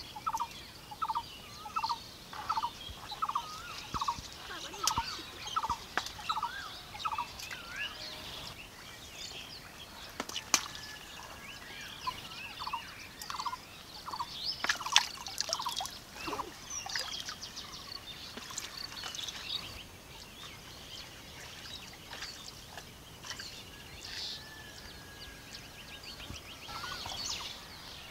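Outdoor birdsong: one bird repeats a short call two or three times a second for about the first seven seconds and again briefly midway, over scattered higher chirping from other birds. A few sharp clicks come near the middle.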